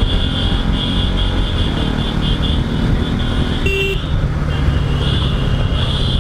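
Motorcycle ridden at steady speed, the engine running under road noise, with a short beep, likely a horn, a little past halfway.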